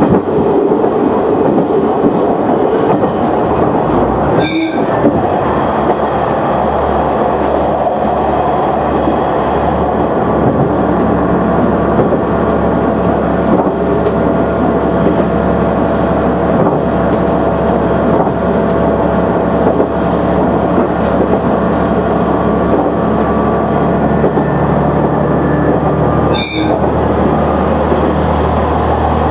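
KiHa 100 diesel railcar running along the line, heard from inside the cab: a steady engine drone with wheel-on-rail noise. The sound briefly dips twice, about four seconds in and near the end.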